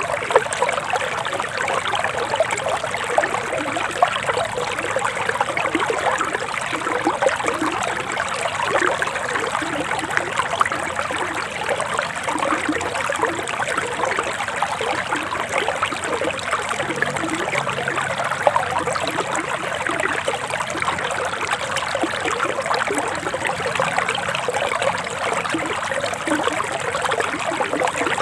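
A forest stream flowing steadily, with constant trickling and splashing of water over stones.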